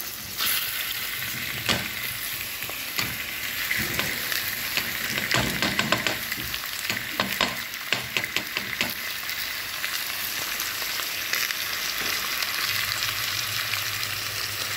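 Chopped onions and raw chicken pieces sizzling steadily in a stainless steel pot. A wooden spatula stirring them gives many clicks and knocks against the pot, mostly between about 2 and 9 seconds in.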